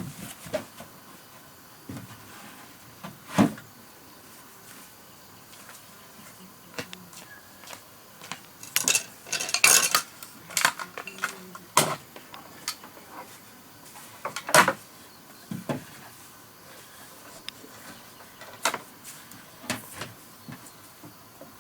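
Irregular knocks and clinks of hard objects being handled, about a dozen spread out, with a brief flurry of several about halfway through.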